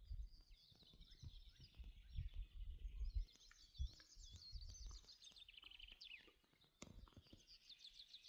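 Faint songbird singing: quick warbling phrases with rapid trills, over a quiet outdoor background. Soft low thumps come in the first few seconds.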